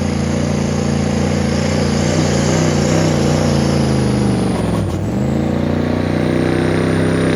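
Open-class diesel pulling truck's engine running at full power under load as it pulls the sled, with a steady high whine above the engine. The engine note dips briefly about five seconds in and recovers, then drops off at the end of the pull.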